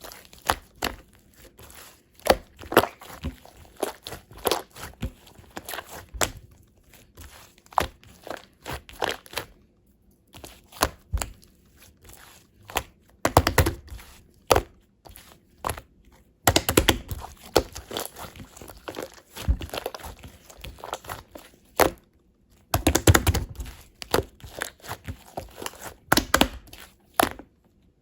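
Slime being squeezed and pressed by hand, making irregular clicking pops and crackles that come in denser, louder clusters with short pauses between.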